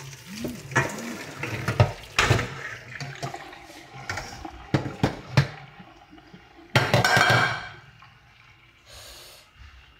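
Water pouring and splashing in a kitchen, with several sharp knocks of a pot or utensils and a louder splash about seven seconds in.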